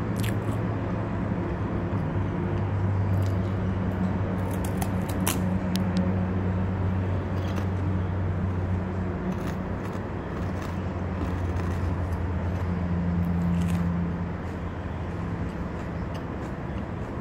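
A steady low mechanical hum, like an idling engine, with a few short crisp crunches as a sesame-and-cashew puffed rice crisp is bitten and chewed.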